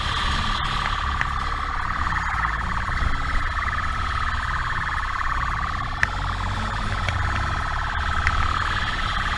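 Police motorcycle siren sounding a steady, slightly wavering high tone during a high-speed pursuit, over the rumble of the motorcycle's engine and wind.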